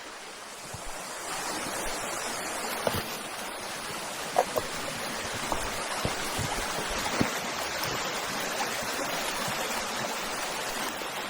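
Creek water running steadily, growing a little louder about a second in, with a few short knocks and taps over it.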